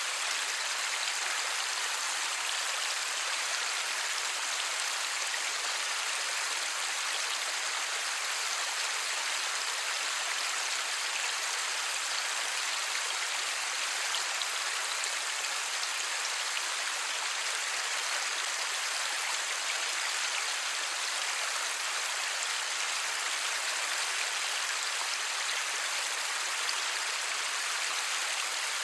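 Steady light rain falling, an even hiss with faint pattering of drops, no thunder.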